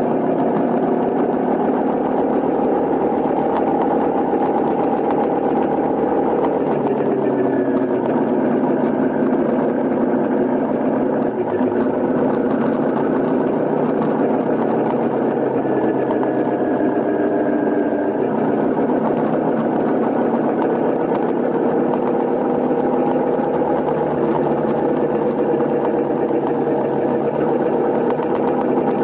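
Honda CRF250L's single-cylinder engine running steadily, its pitch rising and falling a few times with changes in engine speed.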